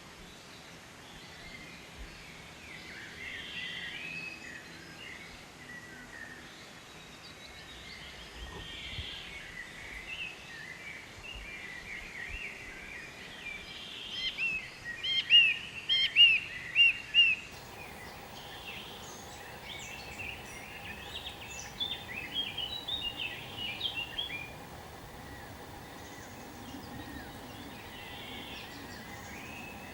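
Several small birds chirping and calling, with a quick run of loud, sharp chirps about halfway through, over a faint background.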